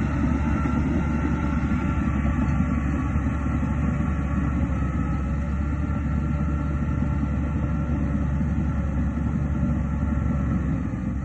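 Diesel engine of a crawler bulldozer running steadily, a loud low drone with steady higher whining tones over it.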